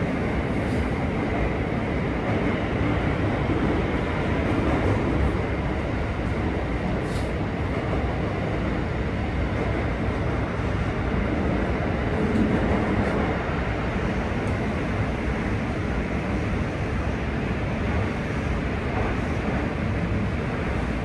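Steady interior noise of a JR West 323 series electric train running: an even rumble of wheels and running gear with a faint steady high tone.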